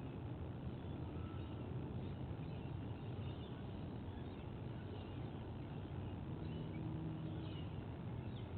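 Steady outdoor background noise on a nest camera's microphone, with faint high chirps of small birds every second or two.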